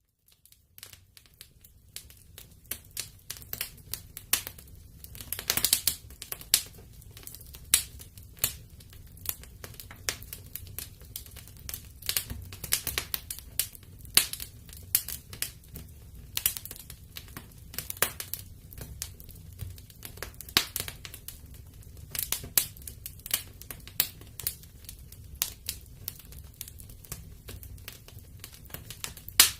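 Wood fire crackling in a fireplace: irregular sharp pops and snaps over a low steady rumble of the flames, starting faintly and growing busier over the first couple of seconds.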